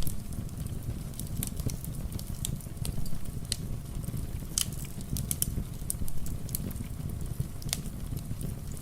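Wood fire crackling, with irregular sharp pops, several of them louder, over a steady low rush of rain.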